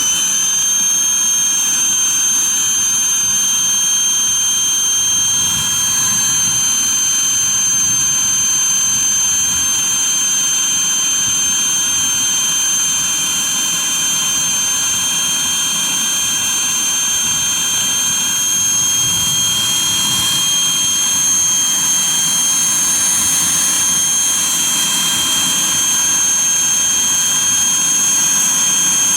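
Small high-speed motor running steadily with a high-pitched whine.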